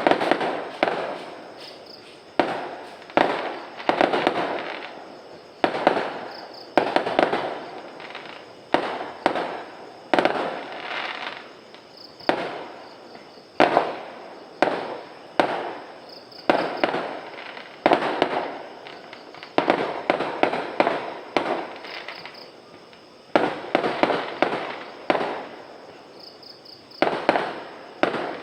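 Fireworks going off in an irregular string of sharp bangs, one or two a second, each followed by a crackling tail that fades before the next.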